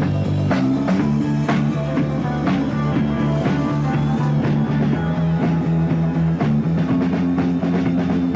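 Live rock band playing an instrumental piece: electric guitar over sustained bass notes and a steady drum-kit beat.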